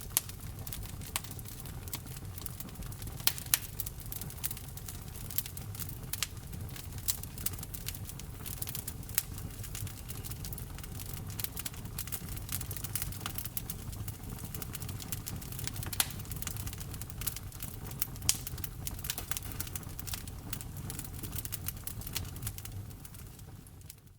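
Wood fire in a fireplace crackling, with dense small snaps and a few louder pops over a steady low rumble. The sound fades out just before the end.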